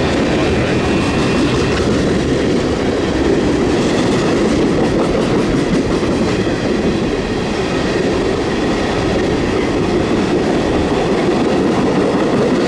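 Freight train cars rolling past on the rails: a steady, loud rumble of wheels with clickety-clack. A faint high whine sounds in the first two seconds.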